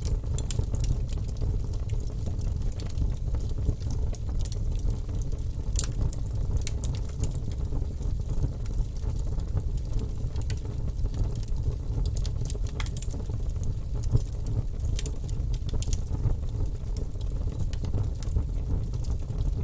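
Wood fire burning in a fireplace: a steady low rumble from the flames, with many sharp crackles and pops.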